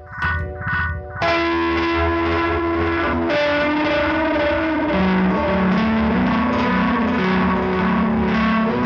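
Electric guitar played through a Big Ear Pedals Albie multi-effect pedal, with a distorted, effected tone. About a second in, a quick pulsing chord gives way to louder sustained notes that bend down in pitch midway, then hold.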